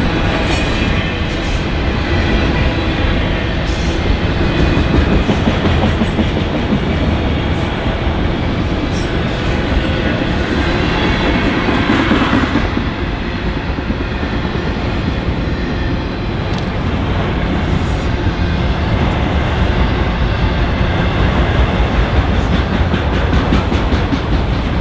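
Freight train of autorack and tank cars rolling past: a steady rumble of steel wheels on rail with repeated clacks as the wheels cross the rail joints.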